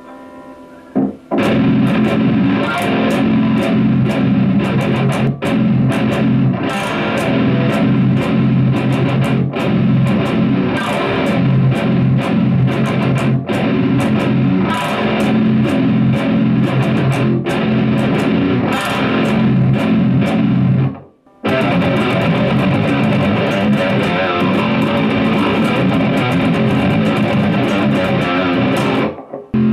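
Baritone seven-string electric guitar (Agile Intrepid 728) played with heavy distortion, choppy riffs with many short stops, through a Mauler 1x15/4x10 guitar cab and a Mauler 1x18/1x15/2x10 bass cab at once, driven by a Peavey Classic 120 tube power amp and a Bugera BVP5500 tube bass head. The playing cuts out for a moment about two-thirds of the way through, then starts again. The rig is heard loud in the room through a camcorder microphone.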